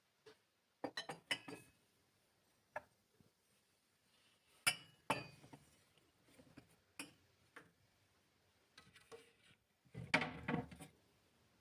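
Dishes and glassware clinking and knocking as they are handled, in short clusters of taps: about a second in, around the middle, and a denser run near the end.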